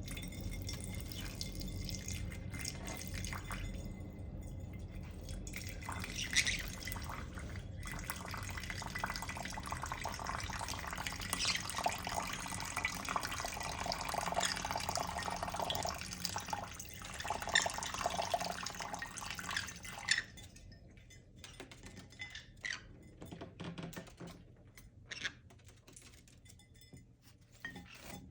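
Water running and splashing as a green-cheeked conure bathes in it, with many small splashes. About 20 seconds in the steady water sound stops, leaving scattered drips and splashes.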